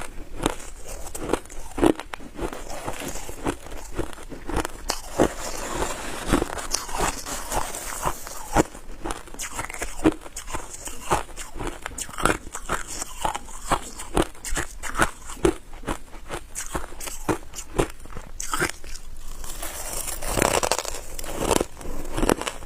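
Ice being bitten and chewed close up: a continuous run of sharp, crackling crunches as the ice cracks between the teeth.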